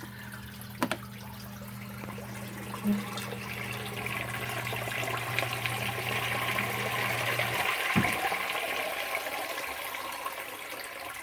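Sump pump running: a steady motor hum with water rushing and gurgling that grows louder, then the motor cuts off about two-thirds of the way through, followed by a single knock. The pump is cycling often to keep up with heavy storm water coming into the pit.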